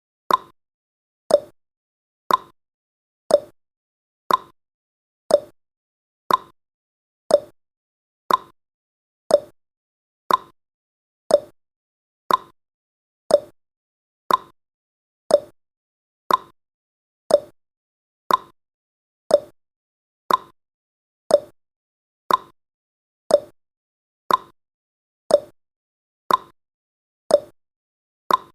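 Countdown timer's ticking sound effect: one short, sharp tick about every second, evenly spaced.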